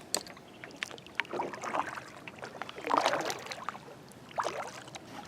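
Kayak paddle strokes splashing through calm lake water in irregular swells, about three in all, with a few light clicks in between.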